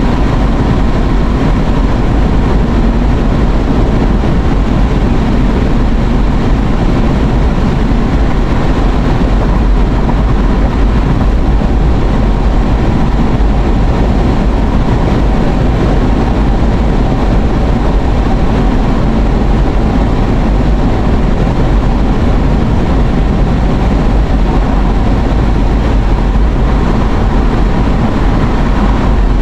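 Steady road noise inside a moving car's cabin, a constant low rumble with no breaks.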